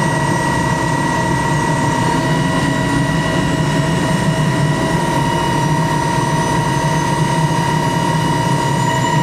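Twin-engine helicopter's turbine engines running after start-up: a steady high whine over a low rumble, the whine's pitch creeping slightly upward near the end.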